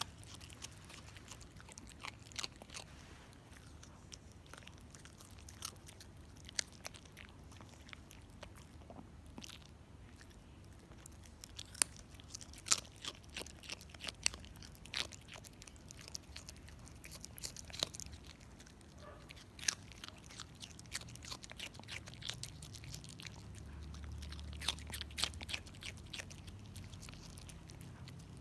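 A dog chewing and crunching hard food, with sharp, irregular crunches.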